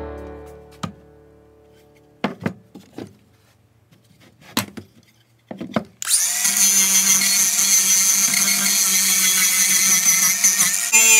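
Angle grinder fitted with a chainsaw carving wheel, starting abruptly about six seconds in and running steadily with a high whine as it cuts into a block of walnut. Before it, a few scattered knocks.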